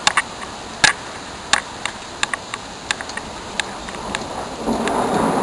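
About a dozen sharp, scattered ticks. Then, near the end, a roll of thunder sets in and grows louder.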